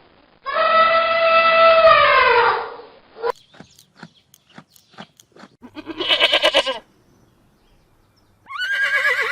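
A sequence of animal calls: a long, drawn-out howl that falls away at its end, then a run of sharp clicks, a short quavering call, and near the end the start of a horse's whinny.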